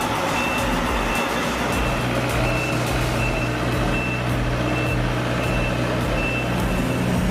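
A heavy truck's reversing alarm beeping steadily, a high single-pitched beep repeating a little faster than once a second, over the low, even running of the truck's engine.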